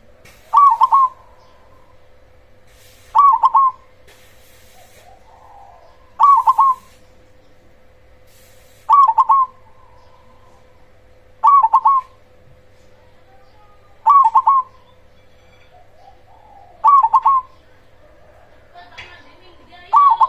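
Zebra dove (perkutut) singing: eight short cooing phrases, each a quick cluster of notes, repeated about every two and a half to three seconds. It is a loud-voiced male in full song, used as a lure to make other perkutut answer.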